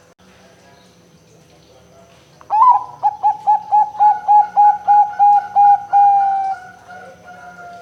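Zebra dove (perkutut) cooing its song: a rising opening note, then a quick run of about a dozen short, even coos, ending in one long, slowly falling note.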